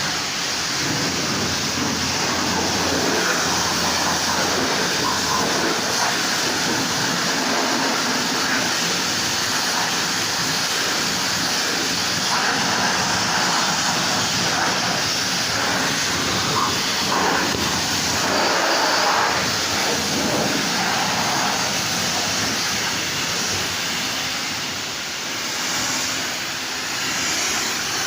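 Car wash running: a loud, steady rush of spraying water and machine noise.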